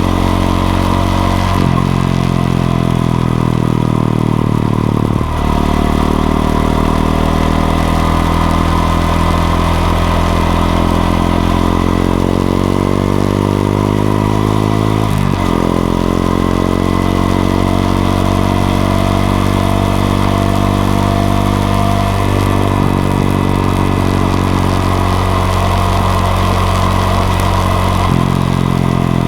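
Honda XRE 190's single-cylinder engine running as the motorcycle rides, its pitch stepping up and down several times with throttle changes.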